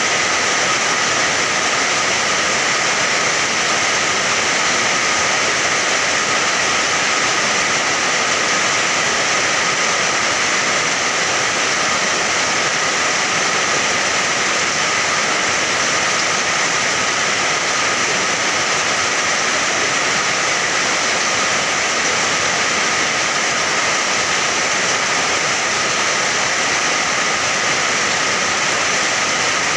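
Steady heavy rain: an even, unbroken rushing hiss with no separate drops standing out.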